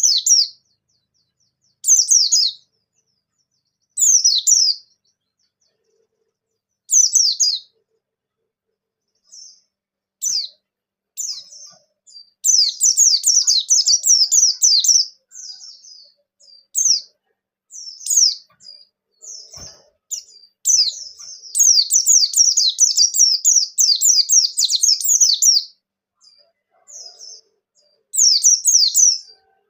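Pleci bustomi white-eye singing hard (gacor): short, high, rapid chirping phrases every couple of seconds at first, then long fast twittering runs of song. This is the full, wild-sounding song used as a lure to set other white-eyes singing.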